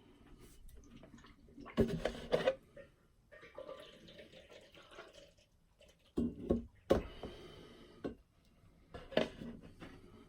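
Antifreeze being poured into a funnel on a drain hose, back-feeding into a hot water tank. The liquid gurgles and splashes in several short bursts, about 2 seconds in, around 6 to 7 seconds and again near 9 seconds.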